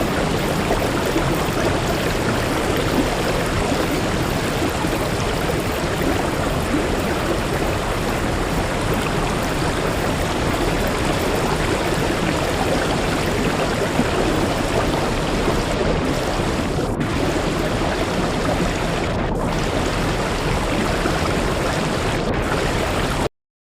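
Waterfall rushing steadily, cutting off abruptly just before the end.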